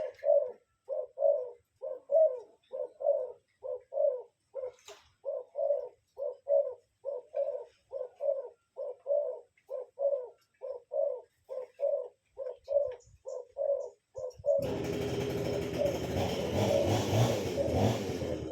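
A bird calling a short low note over and over, about two calls a second. About fourteen and a half seconds in, a louder, dense, hissing sound covering all pitches comes in over it.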